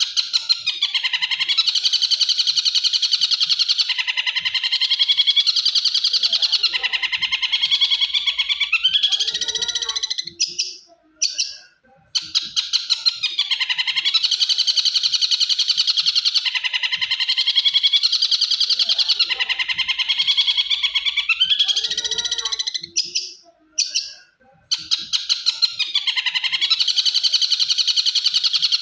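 Bird-song training recording of tengkek buto kingfisher calls mixed with canary song: a dense, rapid trilling chatter for about ten seconds, broken by short pauses near the middle and about two-thirds through, with the same passage repeating each time.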